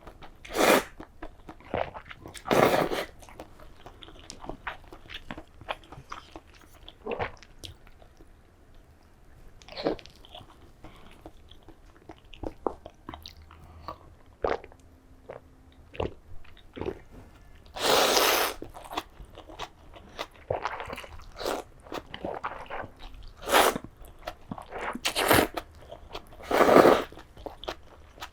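Close-miked eating: a person biting and chewing crunchy food in short irregular strokes, broken by several louder bursts.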